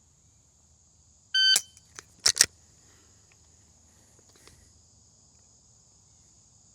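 A shot timer beeps once, and within a second come three sharp clicks of dry-fire trigger presses on an unloaded pistol, with no gunshots. Insects keep up a faint steady high hum underneath.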